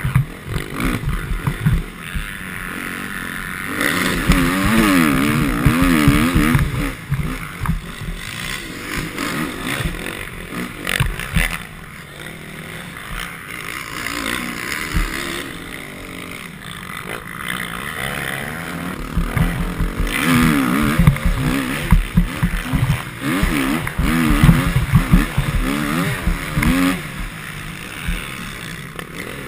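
Motocross bike engine being ridden hard, its pitch rising and falling again and again as the throttle is opened and shut, with a noisy rush and knocks underneath.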